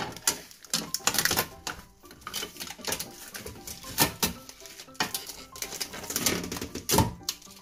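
Irregular clicks, taps and light clatter of hard items being handled and set down, with a few sharper knocks.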